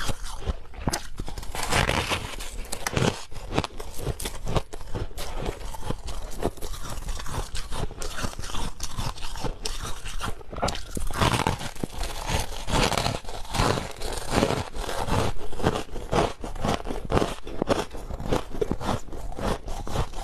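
Ice being bitten and chewed close to the microphone: dense, irregular crunching of ice cubes between the teeth, with no speech.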